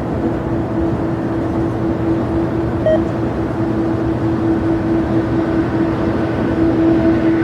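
Jet airliner engines running steadily at the airport, a continuous rushing noise with a steady hum. A brief short beep sounds about three seconds in.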